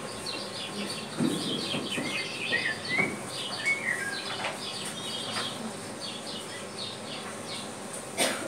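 Birds chirping in quick, repeated short notes, some of them sliding up and down in pitch, with a few dull knocks mixed in.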